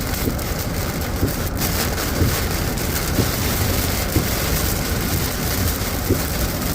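Steady noise of strong wind and heavy rain from a severe thunderstorm coming in through an open car window while driving, with irregular low buffeting thumps of wind gusts.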